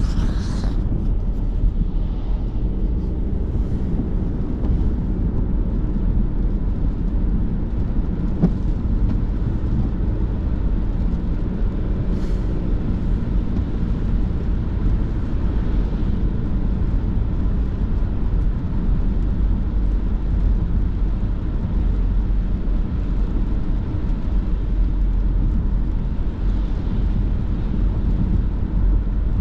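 Car being driven slowly on a snowy road, heard from inside the cabin: a steady low rumble of engine and tyres.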